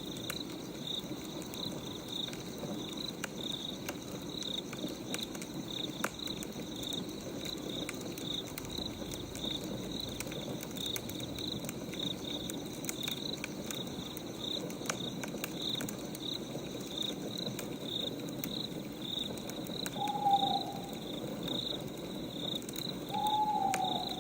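Night ambience: crickets chirping steadily, about two chirps a second, over the scattered crackle and hiss of a wood fire. Two short, falling, hoot-like calls come near the end.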